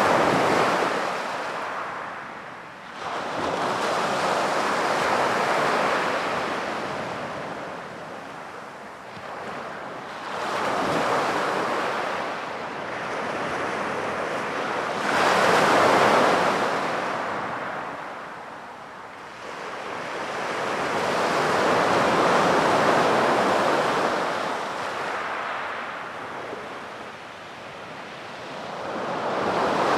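Sea waves breaking and washing up a beach, each surge swelling up and fading away, one about every five to seven seconds.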